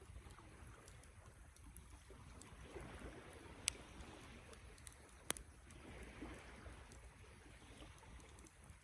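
Campfire burning, faint: a soft hiss and low rumble with scattered small crackles, and two sharp pops from the burning wood a second and a half apart near the middle.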